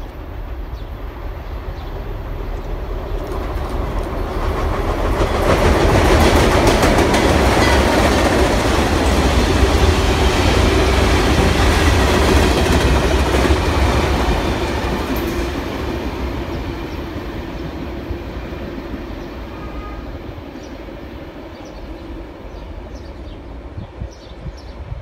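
Work train of ballast hopper cars rolling past close by: a heavy rumble with clattering steel wheels. It grows louder over the first six seconds, stays loud for several seconds, then fades away as the train recedes.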